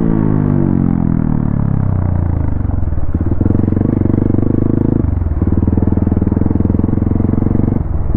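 Modified Hero XPulse 200 motorcycle's single-cylinder engine under way: the revs fall off over the first couple of seconds, then it runs at a steady pitch, with brief drops at about three, five and eight seconds in as the throttle is eased.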